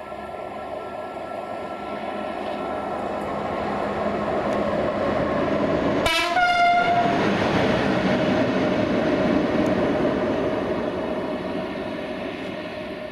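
Romanian 060-EA electric locomotive passing through the station, with a rumble that grows louder as it approaches and fades as it draws away. It sounds one short horn blast about six seconds in, lasting about a second.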